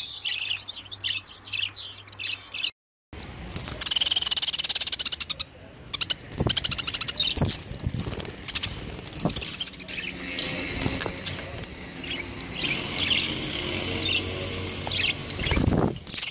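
Budgerigars chirping and chattering in fast, busy high-pitched calls, with a brief silent break about three seconds in.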